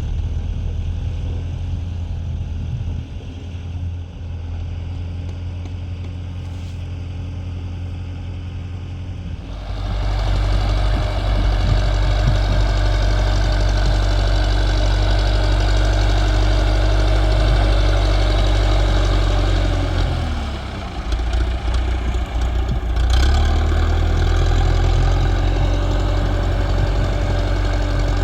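Tractor engine running steadily, getting louder about a third of the way in. About two-thirds through, its pitch sags and falters for a couple of seconds, then it picks back up and runs on steadily.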